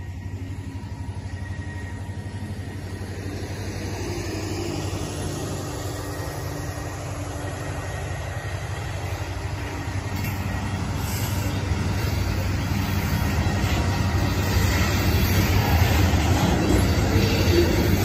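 Freight train passing close by: a diesel locomotive rumbling past, then covered hopper cars rolling by on the rails, getting louder in the second half.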